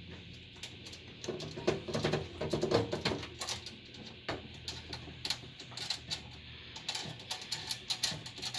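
Repeated small sharp metal clicks and taps as a brass motherboard standoff is fitted into a PC case by hand, with a short stretch of music from about one to three seconds in.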